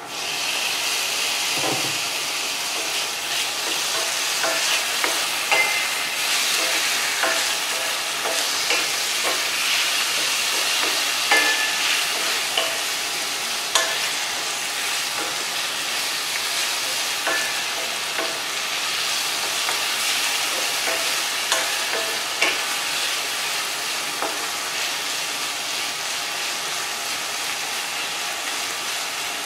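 Sliced tomatoes dropped into hot oil with garlic and onion in a stainless steel frying pan, the sizzle jumping up as they go in and carrying on steadily. A wooden spatula stirs them, scraping and tapping against the pan now and then.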